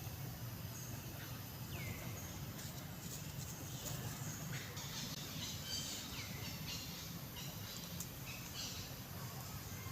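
A few short, high chirping calls that slide down in pitch, with some scratchy high squeaks a few seconds in, over a steady low hum.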